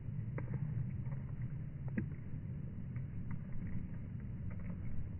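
Steady rain: an even low rumble with scattered faint ticks of drops.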